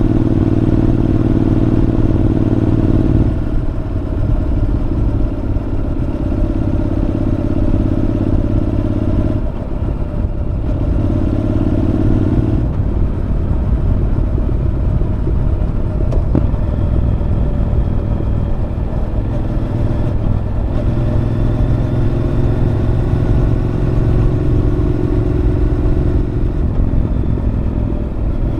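Honda NC750X parallel-twin engine through a Moriwaki aftermarket muffler, ridden on a winding road: the exhaust note swells in stretches under throttle (at the start, around ten seconds in, and through the last third) and drops back between, with road and wind noise underneath.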